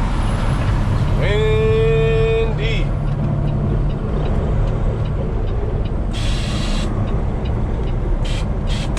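Inside the cab of a Peterbilt 389, engine and road noise run steadily. About six seconds in there is a hiss of air as the front air suspension is let down to ride height, followed by two short hisses near the end. A brief held tone sounds about a second in.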